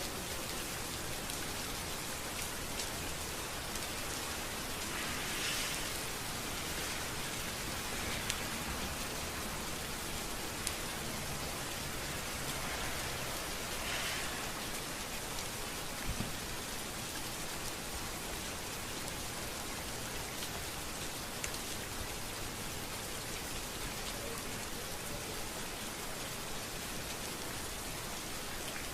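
Steady rain falling on a street: an even, continuous hiss with a few scattered louder drips and taps.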